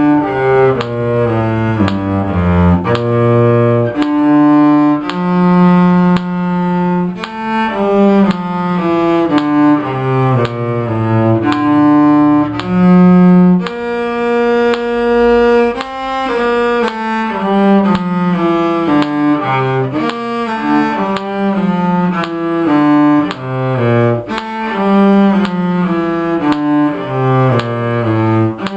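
Cello playing a brisk melody of short bowed notes, one after another without a break, with a few longer held notes.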